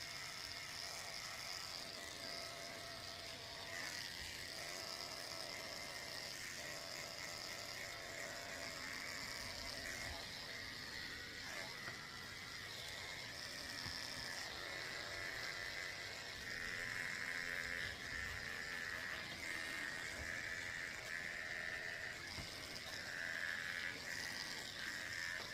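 Electric dog grooming clippers with a number 10 blade running steadily, a faint, even hum that swells slightly at times as the blade is run in reverse over a poodle's face.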